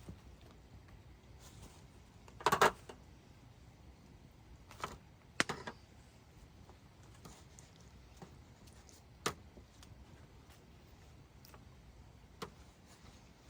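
Scattered sharp clicks and knocks over a faint steady background, the loudest a brief clatter about two and a half seconds in, then single clicks a few seconds apart.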